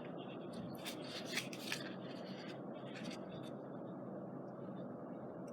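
Paper scrapbooking embellishments being handled and sorted: light rustling and scraping of paper, with a few soft taps in the first two seconds.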